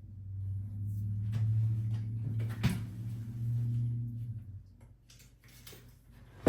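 Wooden knocks and clunks from handling the bathroom vanity cabinet, with a louder knock near the middle and a sharp, loud knock at the very end. A low steady hum runs underneath and stops about four and a half seconds in.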